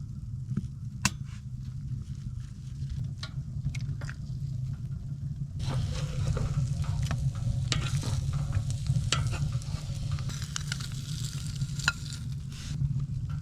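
Food frying in a pan: a crackling sizzle starts suddenly about halfway through, with scattered clicks and scrapes of a utensil. A steady low rumble runs underneath.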